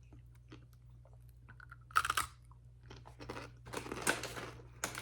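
A person crunching and chewing freeze-dried candy close to the microphone: a loud crunch about two seconds in, then a run of crunching bites in the second half.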